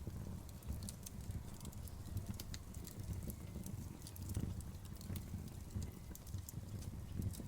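Wood fire burning with a low steady rumble and frequent small crackles and pops.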